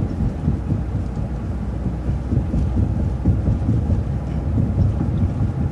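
Transit bus driving along, a steady low rumble of engine and road noise.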